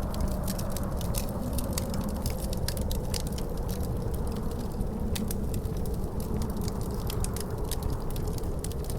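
Wood fire crackling with many sharp, irregular pops over a steady low rumble of wind.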